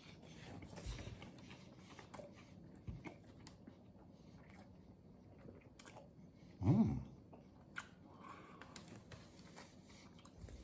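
A man chewing a mouthful of soft sub sandwich, with faint wet mouth clicks. About two-thirds of the way through, a short hummed grunt from the eater is the loudest sound.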